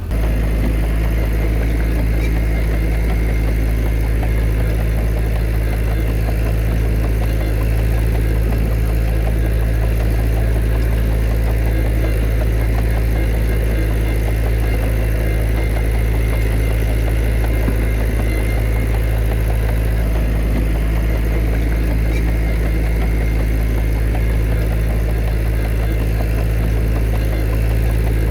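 Heavy earthmoving machine's diesel engine running steadily at an even speed, a deep constant hum with mechanical clatter over it.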